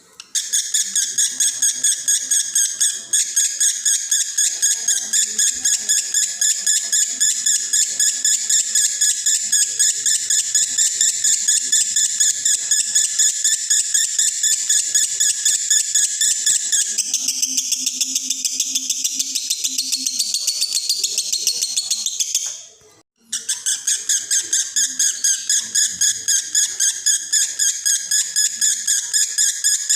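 Male lovebird in breeding condition singing a long, rapid, high chattering run of chirps, several a second, that breaks off briefly about two-thirds of the way through and then resumes.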